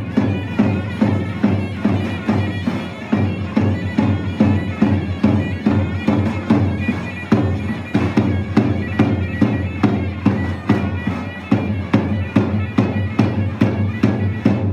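Turkish folk dance music from a davul and zurna: the shrill, reedy zurna plays a sustained melody over steady davul beats, about two to three a second.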